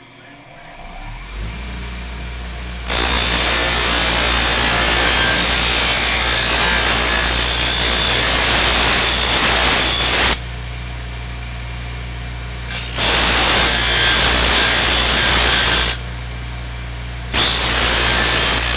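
Motor-driven wire wheel spinning up and running steadily, with three loud stretches of harsh grinding as a beer bottle cap is pressed against it to strip the plastic liner from inside the cap.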